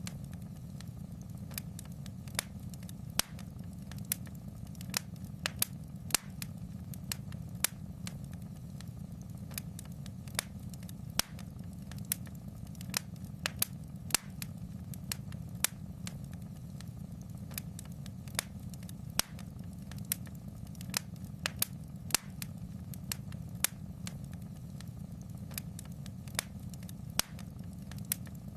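Fire crackling in a fireplace: sharp pops and snaps at irregular intervals, one to three a second, over a steady low rumble.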